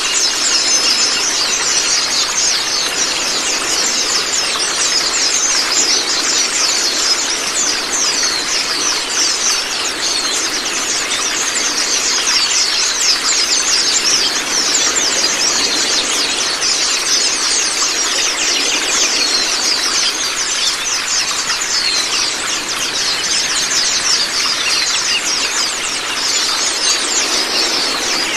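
Several white-eyes (Zosterops) chirping rapidly and without pause, many short high falling notes overlapping, over a steady rush of running water.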